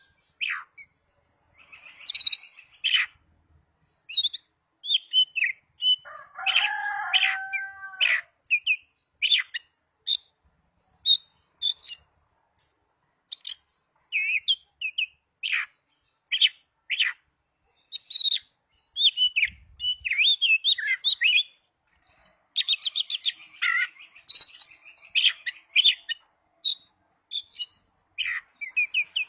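Oriental magpie-robin (kacer) singing: a varied run of sharp chirps, quick trills and whistled phrases broken by short pauses, with a lower, fuller call around seven seconds in.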